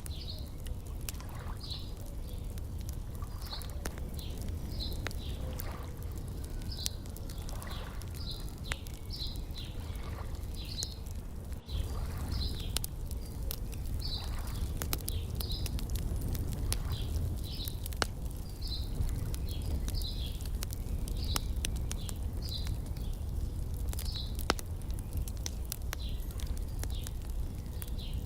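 Wood fire crackling, with sharp irregular pops, over a low steady rumble. A bird repeats a short high chirp about once a second throughout.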